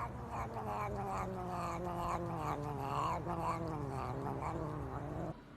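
A cat yowling in one long, wavering call that slowly drops in pitch, cutting off suddenly near the end.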